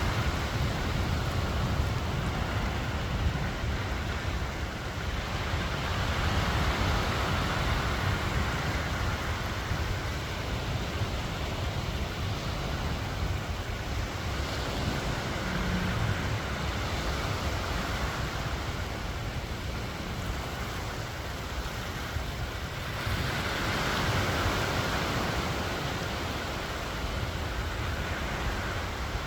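Sea waves washing on a sandy beach, swelling and fading three times about nine seconds apart, over a steady low rumble of wind on the microphone.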